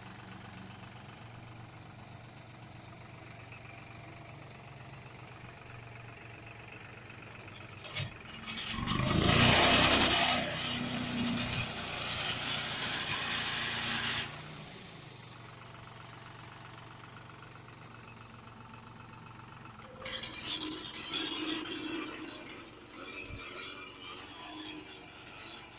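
Deutz-Fahr Agrolux 70 tractor's diesel engine idling steadily, then revving up loudly for about five seconds as it takes up the pull on a boat, before dropping back to idle. Irregular clattering and knocking sounds come in near the end.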